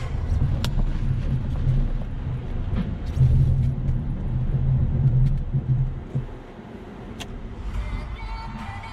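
Vehicle driving, a steady low engine and road rumble that eases off about six seconds in, with a couple of faint clicks.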